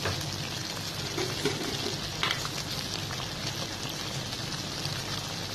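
Chicken cooking in its own juices in a metal kadai over a gas flame, sizzling and bubbling steadily, with small crackles now and then.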